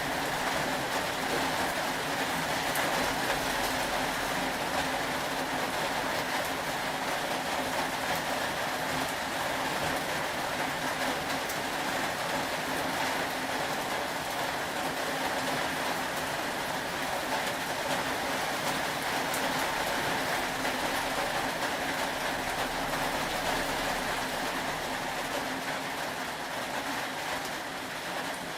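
Steady rain falling, an even continuous patter without breaks or changes.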